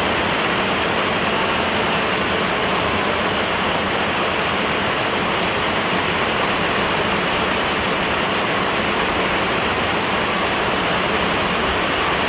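Heavy downpour of rain falling steadily, a dense, even rushing hiss with no break.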